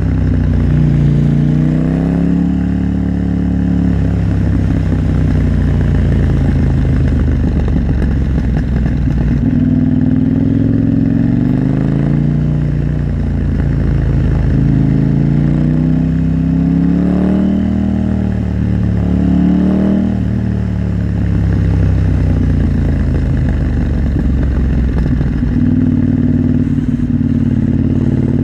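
KTM 890 Duke R's parallel-twin engine running under way, its pitch rising and falling several times as the throttle is opened and closed, over steady wind and road noise.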